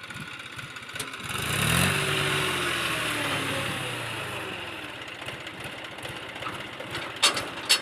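A motor vehicle's engine passes close by: it swells up about a second in, then drops in pitch and fades away over several seconds. A few sharp clicks come near the end.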